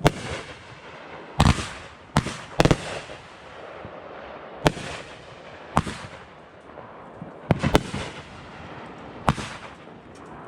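Fireworks going off: a string of sharp bangs at irregular intervals, some in quick pairs, each with an echoing tail.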